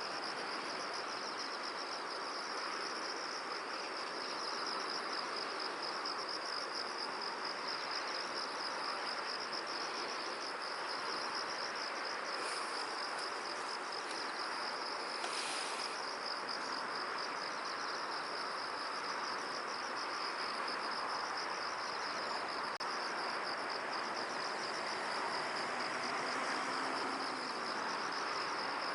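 Insects trilling steadily in a continuous high, fast-pulsing chorus, over an even rushing hiss like wind.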